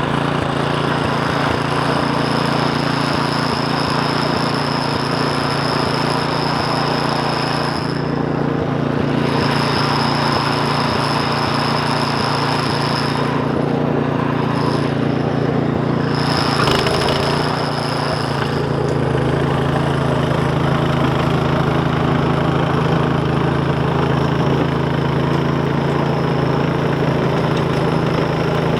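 Snowblower's small gasoline engine running steadily, with a high thin whine that cuts out twice partway through.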